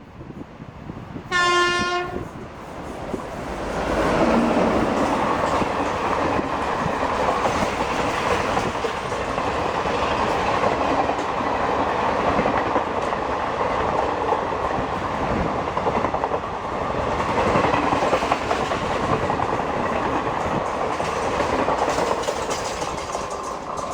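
A train's horn sounds one short blast about a second and a half in, then an express train passes at speed: a steady loud rush of wheels on rail and coaches running through the rest.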